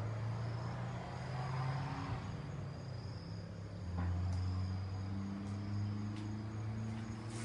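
Insects trilling in repeated high-pitched spells over a low steady hum.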